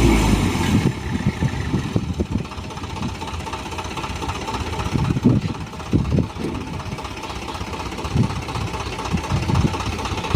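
Diesel dump truck engine running at idle, a steady low rumble broken by irregular low thumps.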